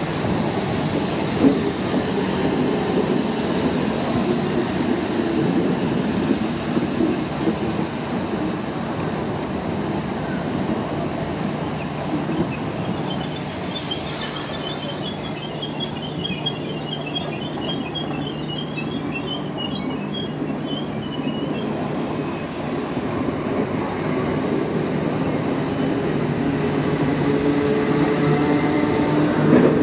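An electric multiple-unit train runs on the rails with a continuous rumble. High wheel squeals come through the middle. Near the end a motor whine rises in pitch as the train gathers speed.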